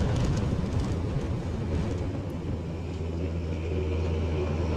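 Motorcycle engine running steadily while riding, with road and wind noise; the low engine hum becomes steadier and more even from about halfway through.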